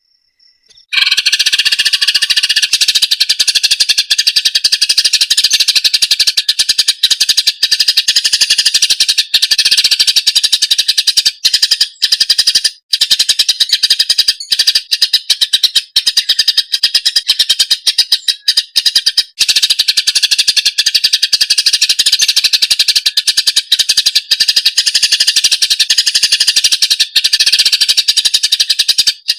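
Cucak ijo (green leafbird) singing a loud, dense, rapid chattering song without a break, starting after about a second of silence.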